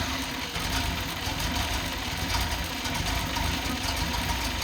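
Nissan 280ZX turbo's L28ET inline-six on a test stand, idling steadily just after starting.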